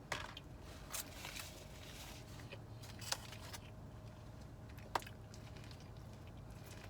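Quiet eating sounds: a few short, sharp clicks and crackles from handling and eating takeout food, over a low steady hum.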